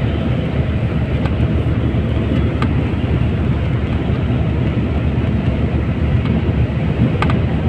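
Strong sandstorm wind buffeting the microphone: a loud, steady, heavy rumble with a few faint ticks.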